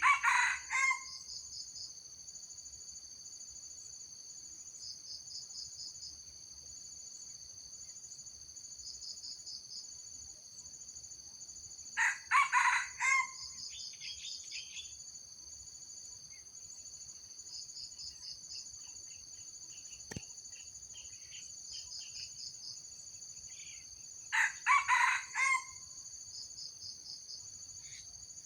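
Junglefowl rooster crowing three times, about twelve seconds apart, each a short crow of about a second. Insects buzz steadily throughout in a high drone with repeated pulsed chirps.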